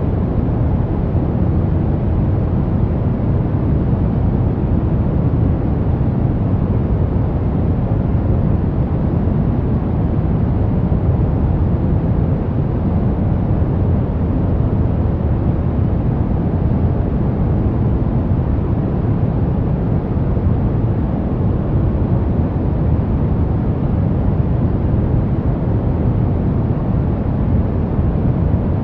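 Steady synthetic pink noise: an even, deep rushing hiss, heaviest in the low end, unchanging and with no tones or clicks.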